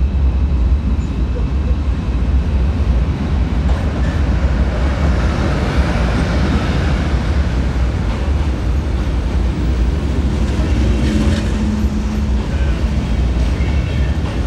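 Electric passenger trains running past on the tracks: a steady rumble as an ICE train moves off, then a FlixTrain electric locomotive and its coaches passing close by. A short steady hum rises out of the rumble about three quarters of the way through.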